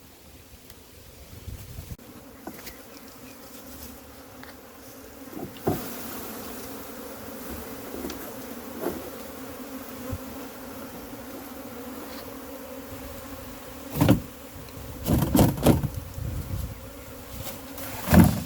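A colony of honey bees buzzing in a steady hum, just transferred from a barrel into hive boxes. Several loud knocks or bumps come near the end.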